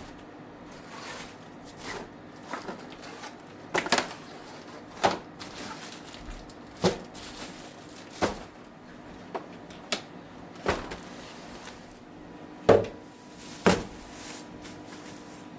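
Scattered light knocks and clacks of kitchen things being handled and set down, at irregular moments about once a second, with two louder knocks near the end. Under them runs a faint steady hum.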